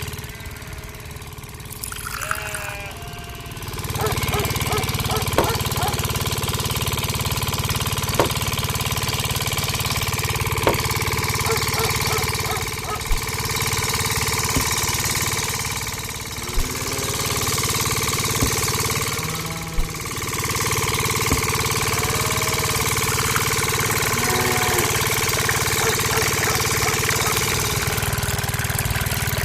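A small engine or motor running steadily, growing louder about four seconds in, with sharp clicks or knocks every second or two.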